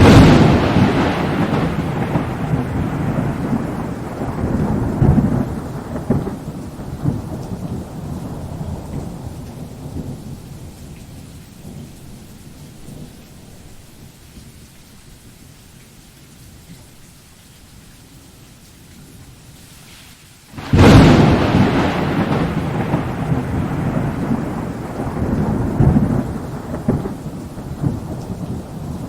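Thunderstorm: two loud cracks of thunder, one right at the start and one about two-thirds of the way through, each rolling into a long rumble that slowly fades, over steady falling rain.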